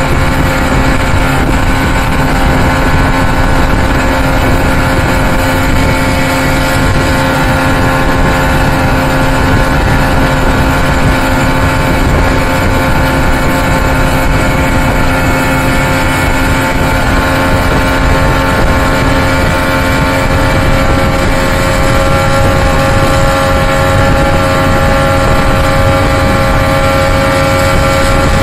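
Evinrude 200 HP V6 two-stroke outboard running steadily under way, its pitch creeping up slightly near the end, over a broad rush of wind and water.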